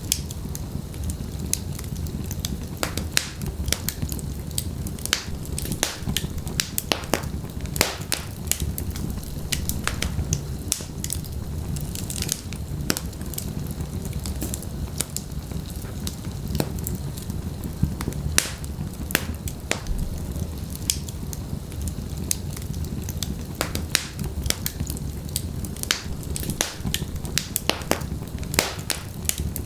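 Wood fire burning in a fireplace: logs crackling and popping with frequent sharp snaps, several a second, over a steady low rumble of the flames.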